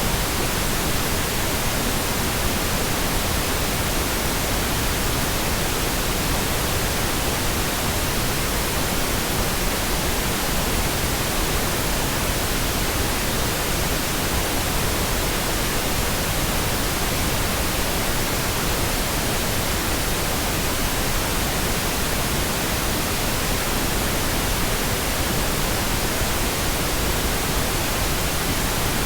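Steady, uninterrupted synthetic pink noise: an even hiss spread across the whole range, unchanging in level.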